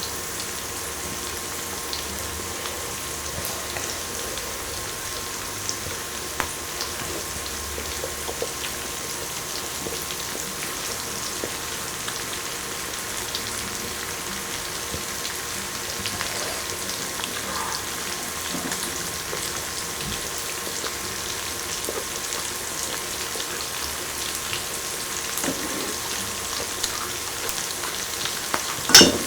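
Food sizzling and spitting steadily on an electric grill, with scattered small crackles. One sharp, loud pop or click comes near the end.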